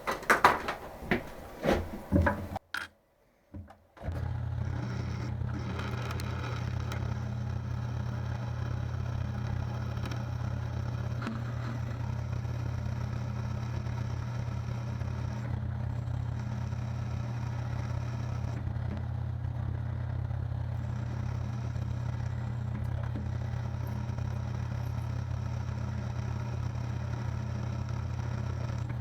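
A few knocks and clatter of metal parts being handled, then, after a brief gap, the motor of a machine tool running steadily with a low hum while a deep hole is drilled into a 4140 steel block.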